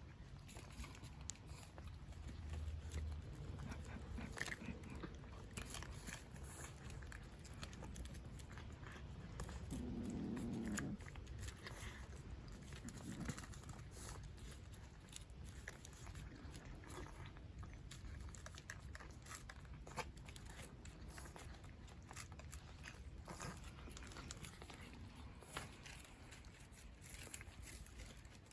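Cats chewing and crunching food, a faint run of small crunching clicks. A brief, louder low sound comes about a third of the way through.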